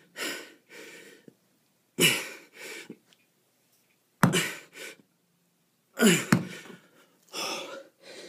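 A man's hard, forceful exhalations with a strained voice in them, about one every two seconds, each followed by a quieter breath in: heavy breathing from the effort of a kettlebell exercise.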